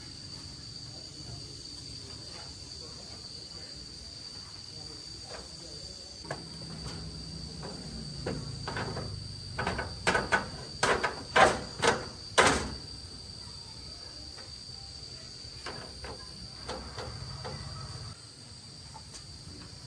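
Crickets shrilling steadily in the background. Around the middle comes a quick run of about half a dozen sharp knocks and clatters.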